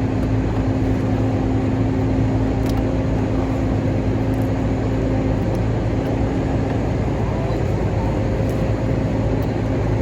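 Steady low mechanical hum of a running machine, unchanging throughout, with a few faint light clicks.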